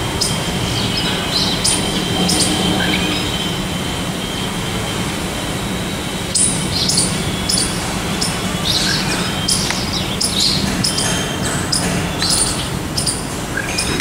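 Small birds chirping in short, high calls, coming more often from about halfway through, over a steady low rumble and a faint high whine in the first half.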